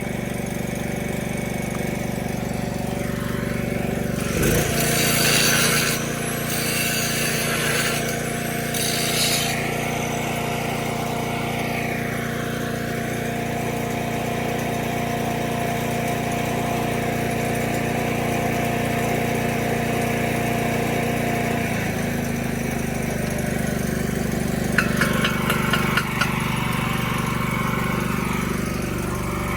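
A small engine runs steadily. Its note changes about four seconds in and changes back a little after twenty seconds. A few sharp clicks come near the end.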